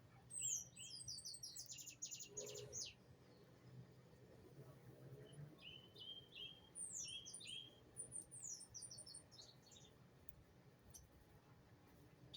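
A songbird singing two phrases, each a run of quick descending high notes and rapid trills: one about half a second in, the next around seven seconds in.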